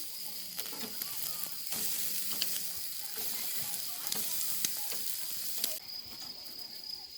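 Kebab meat sizzling and crackling over the grill's hot coals, with scattered pops from dripping fat. The sizzle fades out about six seconds in.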